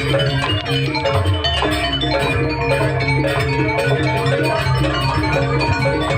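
Live Banyuwangi jaranan gamelan music: metallophones strike a busy run of ringing notes over drums.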